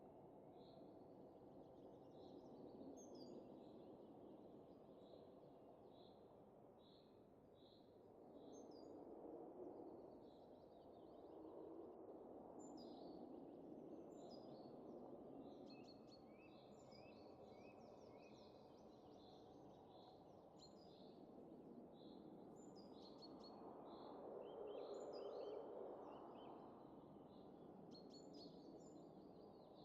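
Faint, soft wind rising and falling in gentle gusts, with small birds chirping over it in quick repeated notes.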